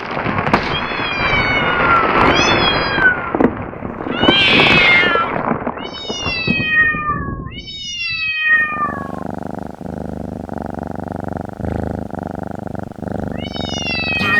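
A kitten meowing again and again: high calls that rise and then fall in pitch. A loud rough noise runs under them for the first half and drops away about eight and a half seconds in, leaving a steadier, quieter background under the last meows.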